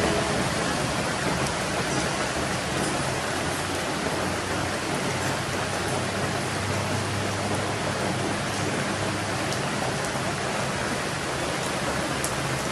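Steady rushing noise of rain, with a faint low hum underneath.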